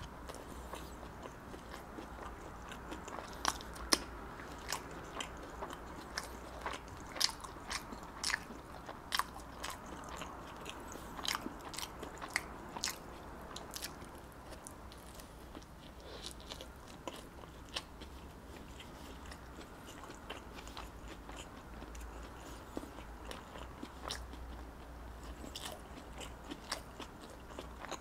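Close-miked biting and chewing of pizza bread: soft mouth sounds with many scattered sharp clicks and crackles, thickest in the first half and again near the end.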